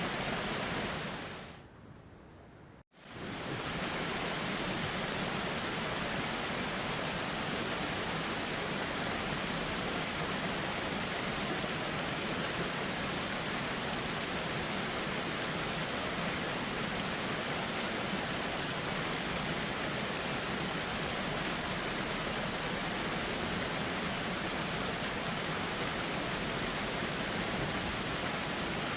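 Steady rushing of a flowing river. About a second in it fades away, drops out entirely for a moment near three seconds, then swells back and runs on evenly, as at the join of a looped recording.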